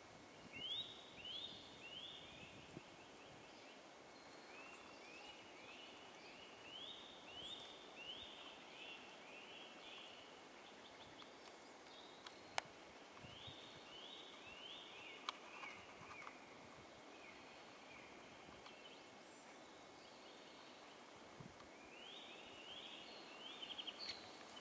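A songbird calling in short runs of quick rising whistled notes, two to four at a time, repeated on and off over a faint background hiss. Two sharp clicks fall about halfway through.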